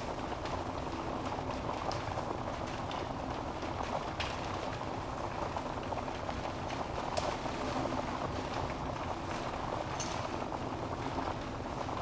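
Wood fire burning in a fireplace: a steady low rush of flames with scattered sharp crackles and pops from the burning logs, a few louder pops about 2, 4, 7 and 10 seconds in.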